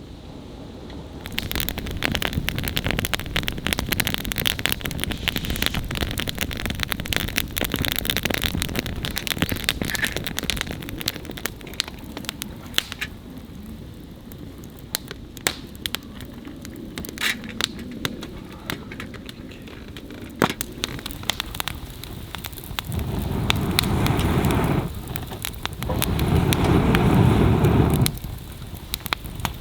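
Wood fire crackling with many sharp pops and snaps. Near the end come two louder rushing noises of about two seconds each.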